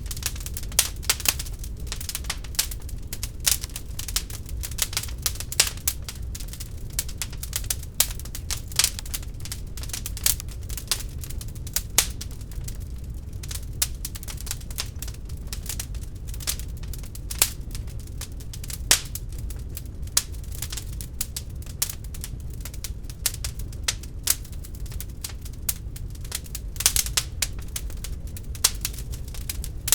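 Wood fire burning in an open fireplace: a dense run of irregular sharp crackles and snaps from the burning logs over a low steady rumble of the flames.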